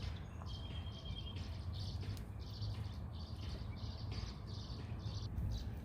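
Wild songbirds chirping: a steady run of short high chirps, two or three a second, with a brief thin whistle about half a second in.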